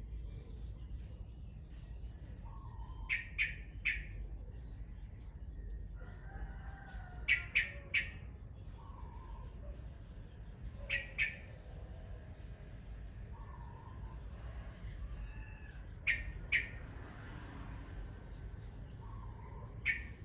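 Birds calling: loud, sharp call notes in groups of two or three, repeating about every four seconds, with softer calls in between.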